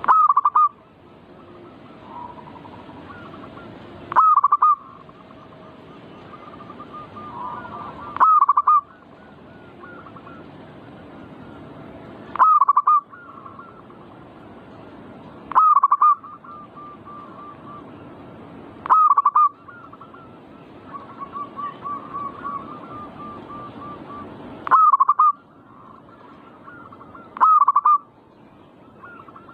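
Zebra doves (perkutut) cooing: a loud, short cooing call repeats about every three to four seconds, eight times in all, with softer cooing notes in between.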